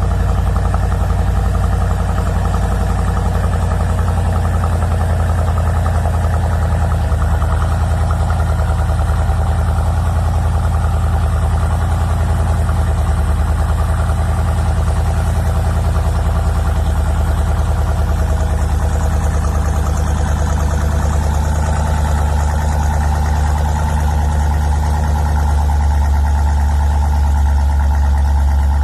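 Jeep Grand Cherokee SRT's 6.4-litre V8 idling steadily just after a cold start, with a deep, even exhaust note. The note changes slightly about two-thirds of the way through.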